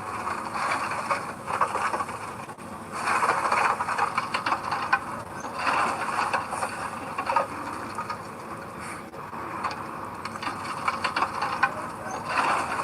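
Heavy earthmoving machinery at work: a continuous rattling, clanking din with squeals, rising and falling in loudness.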